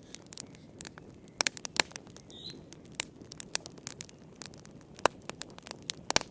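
Wood fire in a fireplace crackling: irregular sharp pops and snaps over a low steady hiss of the flames. A brief high chirp sounds about halfway through.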